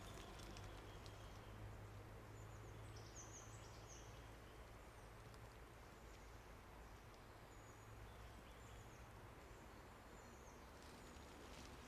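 Faint bird calls over quiet outdoor ambience: a cluster of short, high chirps about three seconds in, then a few scattered single chirps, over a low steady hum.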